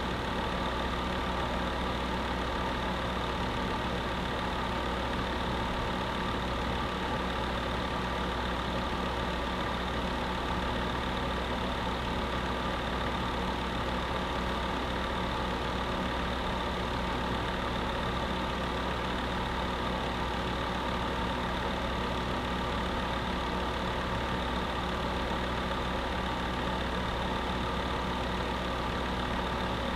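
Electric space heater running steadily with a constant hum and even noise, unchanging throughout.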